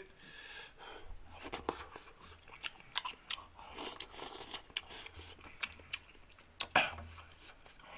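A man chewing mouthfuls of spicy ramen stew close to the microphone: irregular soft clicks and smacks, a little louder near the end.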